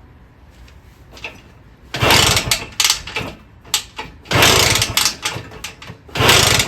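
Minarelli P4-70 two-stroke engine of a 1974 Indian SE74 dirt bike catching briefly three times as it is kick-started, each burst of firing lasting about a second before it dies again: the engine is close to starting but not yet running on its own.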